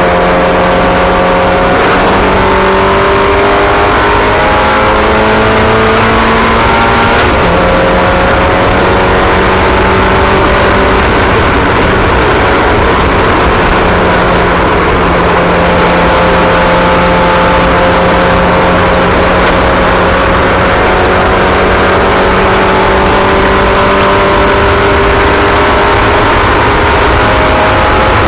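Several small racing engines running at once, each at its own pitch, the pitches rising slowly and then dropping as the cars come through and back off.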